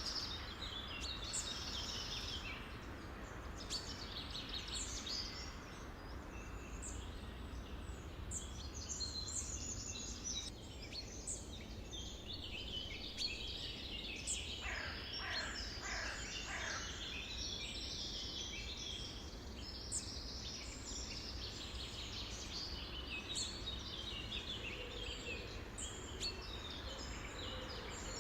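Many songbirds chirping and trilling at once in a dense, overlapping chorus, with a run of about five falling whistled notes about halfway through, over steady low background noise.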